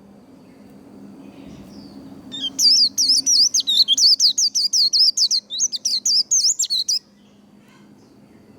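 White-eye singing a fast run of high twittering, chattering notes, the rapid 'líu' song, starting about two seconds in and stopping abruptly after about four and a half seconds.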